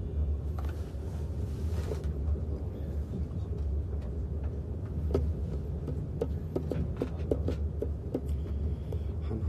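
Steady low rumble of a moving train carriage, with a run of small sharp clicks about halfway through as a plastic earbud charging case is handled on the table.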